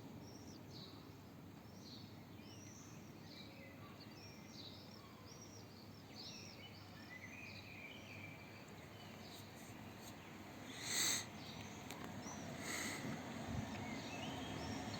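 Several birds chirping and singing in short repeated phrases over a steady low background noise. About eleven seconds in comes a short, loud burst of noise, and a smaller one follows a couple of seconds later.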